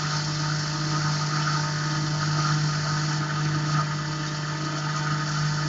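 Tormach PCNC 1100 CNC mill running a finish pass in aluminium: a steady spindle hum with the hiss of the cutter and flood coolant.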